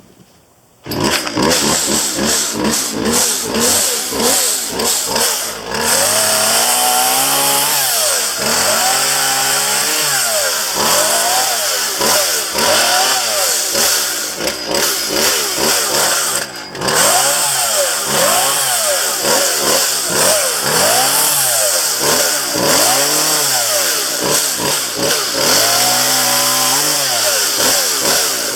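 Chainsaw comes in suddenly about a second in and runs loud, its engine speed rising and falling again and again as it is throttled through cuts.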